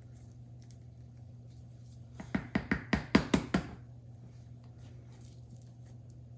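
Plastic shaker of grated cheese being shaken and tapped over a bowl of pasta: a quick run of about eight sharp taps lasting about a second and a half, starting about two seconds in.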